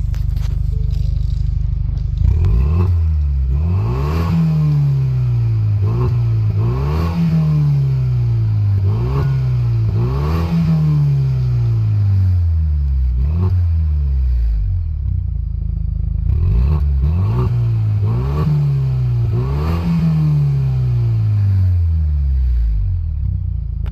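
Ford 2.3 L EcoBoost turbocharged four-cylinder idling, then free-revved about ten times, each blip rising fast and falling slowly back to idle, heard at the tailpipes. It runs through a custom exhaust with Jones Full Boar performance mufflers (2-inch in and out) and the center resonator deleted.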